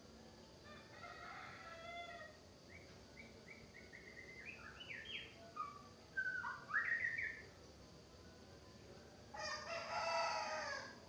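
White-rumped shama singing a phrase of quick rising notes that runs into loud sweeping whistles. A rooster crows once near the end.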